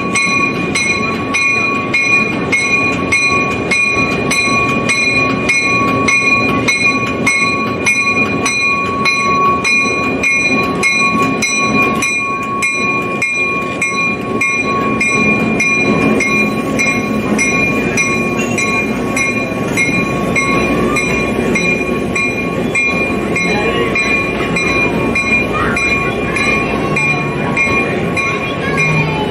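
A diesel-hauled passenger train rolling past, its engine rumbling under the wheels on the rails. Over it a bell rings steadily, about two strokes a second.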